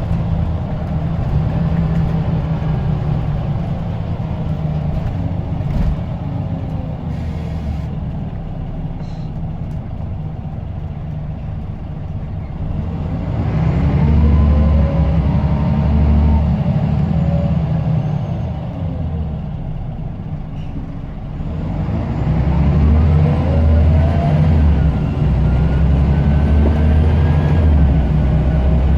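Scania L94UB bus's diesel engine heard on board, pulling hard twice with a whistling turbocharger rising in pitch, easing off in between. A thin high turbo whistle climbs slowly during the second pull.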